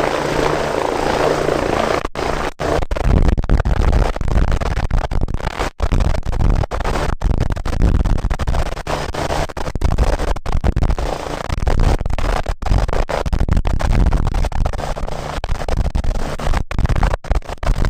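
Bölkow Bo 105 helicopter running close by, its rotor beating steadily. About two seconds in the sound turns into heavy low buffeting on the microphone, broken by many brief dropouts.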